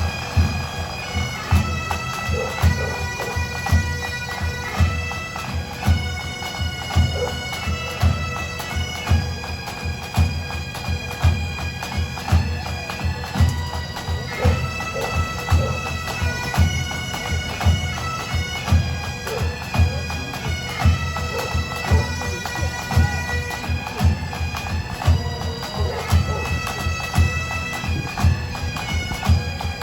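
Bagpipe band playing: a skirling pipe melody over the steady drone, with drums beating a regular march rhythm.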